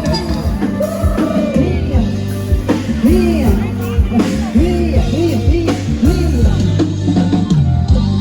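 Loud band music from a Thai procession sound truck: a singer over a steady drum and bass beat, with repeated sliding melodic notes.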